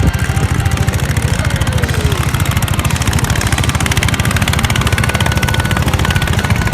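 Motorboat engine running steadily, its fast firing pulses heavy in the low end.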